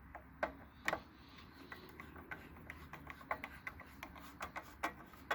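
Scattered light clicks and taps of screws being fitted and done up by hand on a lawnmower engine, with two sharper clicks in the first second.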